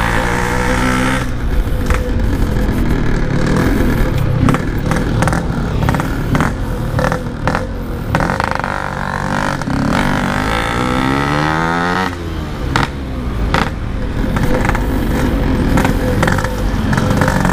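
Yamaha RX King two-stroke single-cylinder motorcycle engine running through a standard-look aftermarket exhaust while riding, its revs rising and falling several times as the bike accelerates and shifts. Wind noise is on the microphone.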